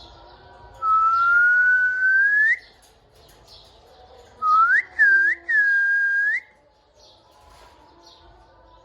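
Clear whistling: one long whistle rising slowly in pitch, then after a pause three more whistles, two short upward flicks and a longer level one that turns up at each end.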